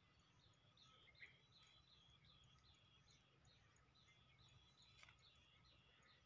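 Near silence with a faint bird chirping steadily, about three short chirps a second, over a low hum.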